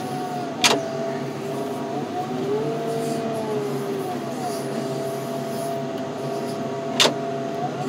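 Loader running while working, with a steady two-note whine that shifts in pitch now and then as the load changes. There are two sharp clanks, one near the start and one near the end.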